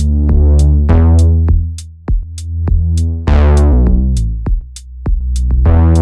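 A synth bass tone played through the Swenigiser Proto VCF/A filter, its input driven hot for a gritty sound. Every couple of seconds the filter snaps open and its brightness closes back down. It sits over a drum-machine beat of steady hi-hat ticks and kicks.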